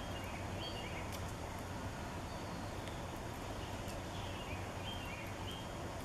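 Small songbirds chirping in short clusters of high notes, once near the start and again from about four seconds in, over a steady low background rumble. A few faint clicks.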